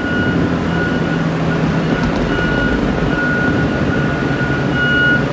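A vehicle's engine running steadily, with an electronic warning beep sounding repeatedly in short, high beeps.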